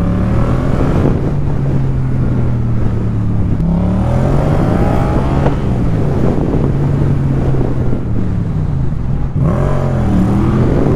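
Yamaha MT-07's parallel-twin engine running under way, its pitch dropping and climbing again several times as the bike is throttled and shifted through the gears.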